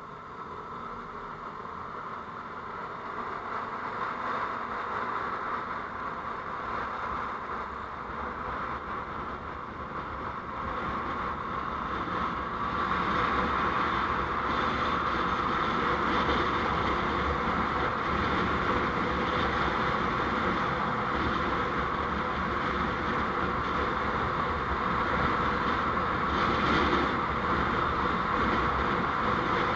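Steady road noise of a moving vehicle heard from on board, growing louder over the first dozen seconds and then holding level.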